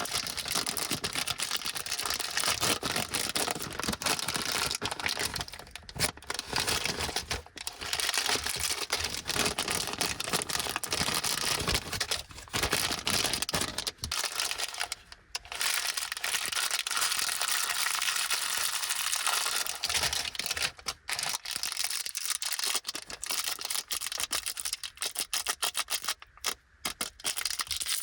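Small plastic wrappers of Anpanman chocolates crinkling and rustling as they are handled and torn open, with a few short pauses.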